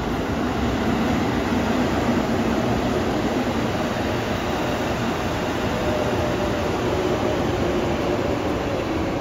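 Train running by, a steady rumble with a faint motor hum underneath.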